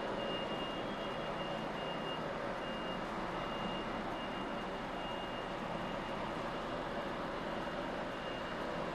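HGV lorry's diesel engine running low and steady as the truck reverses slowly, with a thin high reversing-alarm tone held over it.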